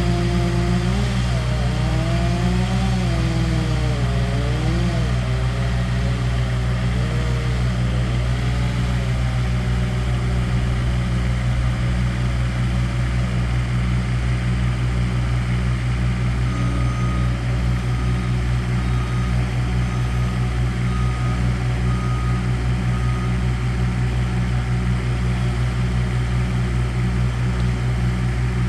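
A heavy engine of tree-removal equipment running steadily at idle. For about the first ten seconds a second motor's pitch wavers up and down, and in the middle a series of short high beeps sounds about once a second.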